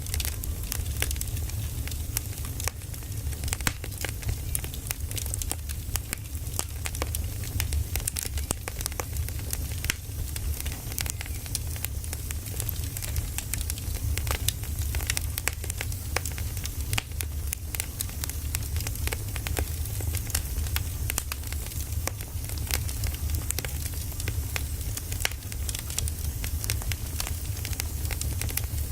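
Firewood burning, crackling and popping constantly with many small irregular snaps, over a steady low rumble.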